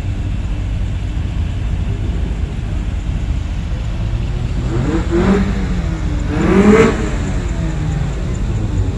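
Car engines rumbling steadily, with a car revving up twice, about five seconds in and again more loudly about a second and a half later, each rev rising then falling away.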